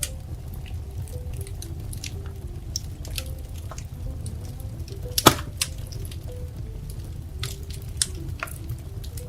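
Wood fire crackling, with irregular sharp pops and snaps over a low steady rumble; the loudest snap comes about five seconds in, another near eight seconds. Soft, faint music plays underneath.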